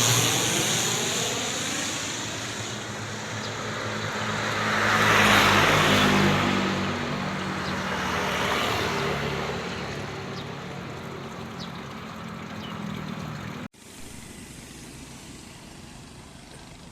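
Twin Otter's two PT6A turboprop engines and propellers running as the aircraft lands, loud at first and fading, swelling again about five seconds in, then dying away. The sound cuts off suddenly near the end, leaving a quieter steady background.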